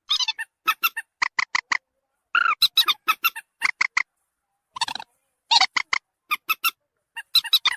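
Common moorhen (mandar batu) calls: short, clipped squawking notes in quick runs of three to five, with abrupt silent gaps between the runs, as on an edited lure-call recording.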